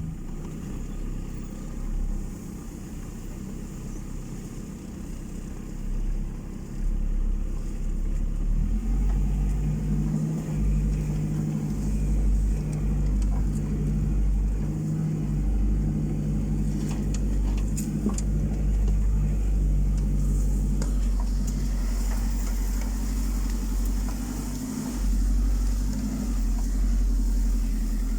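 A car running with a steady low rumble, its engine hum settling onto a constant pitch about nine seconds in.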